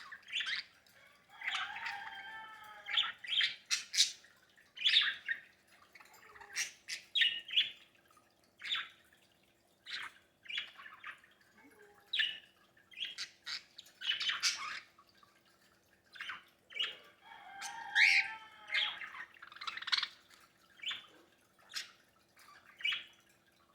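Pet parakeets and a cockatiel calling: a run of short, sharp chirps and squawks, with two longer warbling chatters, one about two seconds in and one near eighteen seconds.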